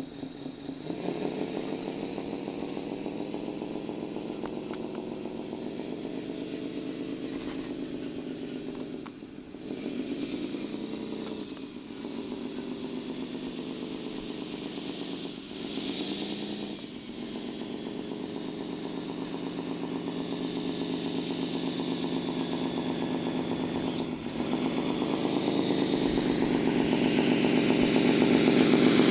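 Diesel engine of a Volvo FMX dump truck running under way. Its revs dip briefly and climb back three times, and it grows louder near the end.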